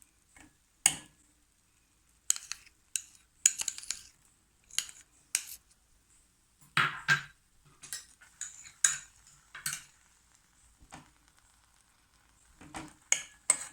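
A kitchen utensil knocking and scraping against a pot in short, irregular strokes, as butter is added to mashed potatoes.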